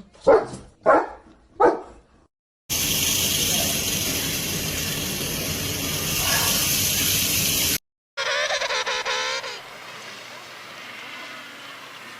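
Three short, loud animal calls, then about five seconds of steady hissing noise. After a brief break comes a wavering animal call over quieter background noise.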